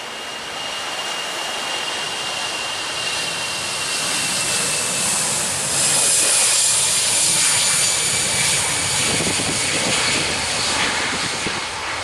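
Jet airliner passing close by, its engine noise swelling to a peak about six seconds in and then easing, with a high whine that slowly falls in pitch.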